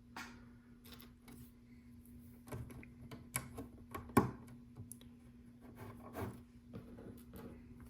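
Small LEGO plastic pieces clicking and tapping as they are handled and pressed onto the baseplate, irregular light clicks with one sharper click about four seconds in.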